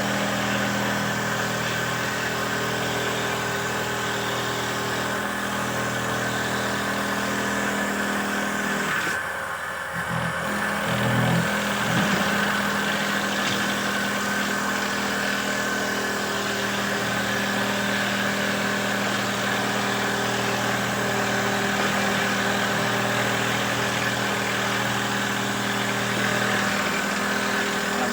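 The motor of a simple handmade wooden-dowel machine running steadily at a constant pitch. Its sound dips briefly about nine seconds in, then runs on steadily again.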